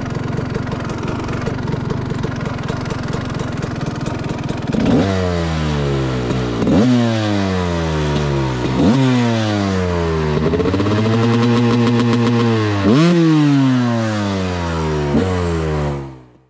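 TM SMR 300 two-stroke motorcycle engine. It starts as a dense, rough running noise; from about five seconds in, the engine note jumps up sharply and winds back down five times, once holding high for about two seconds in the middle. The sound fades out near the end.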